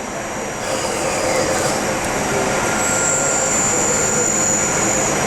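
Daewoo CNC lathe cutting 1.5-inch aluminum bar stock as it parts off the finished piece: steady machining noise that grows louder about a second in, with a high-pitched squeal from the cut midway through.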